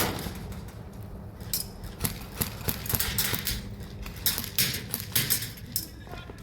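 A string of irregular sharp clicks and knocks, roughly two or three a second, over a low steady hum.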